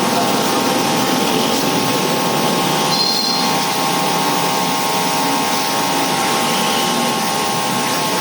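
Electric pressure washer (AC wash pump) running steadily, a motor whine with a few held tones over the even hiss of the water spray.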